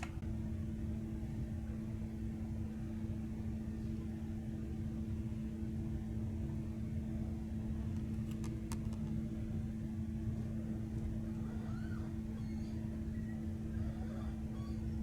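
Passenger train running, heard from inside the carriage: a steady low rumble from the wheels and running gear with a constant two-note electric hum. A couple of faint clicks come about eight seconds in.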